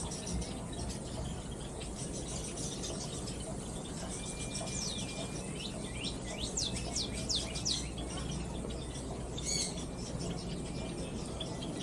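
Aviary birds chirping, with a flurry of quick high calls that drop in pitch about five to eight seconds in, over a steady low background rumble.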